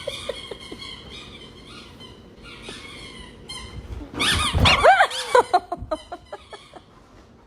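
High, squeaky animal cries: faint squeaks at first, then a quick run of loud squeals that rise and fall in pitch, about four seconds in, trailing off near the end.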